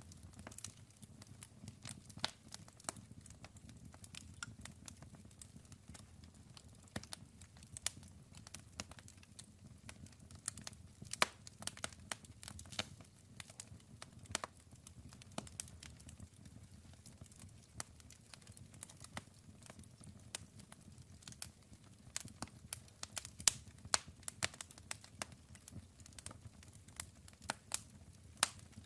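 Burning wood in a campfire crackling, with irregular sharp pops and snaps over a low, steady rumble of the flames.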